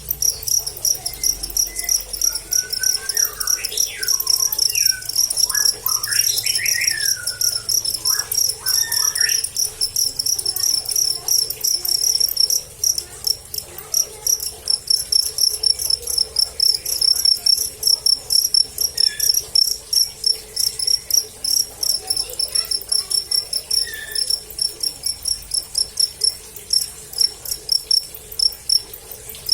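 Crickets chirping: a steady, even run of short high-pitched chirps repeating several times a second.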